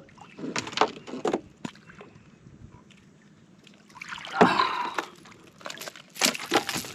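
A hooked channel catfish flopping while being handled: scattered knocks, a loud wet splashy rustle about four seconds in, then a run of sharp knocks and slaps near the end.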